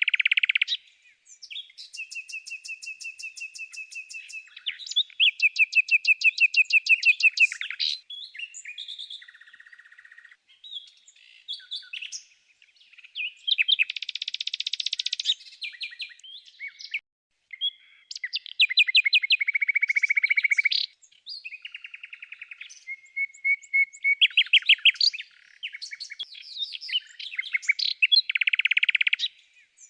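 Songbird singing: rapid trills and strings of repeated chirps in phrases of a few seconds each, with short pauses between them.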